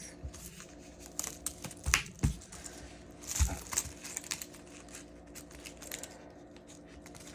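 Paper bills and cash envelopes being handled and shuffled: light rustling and crinkling with scattered clicks and a few soft thumps.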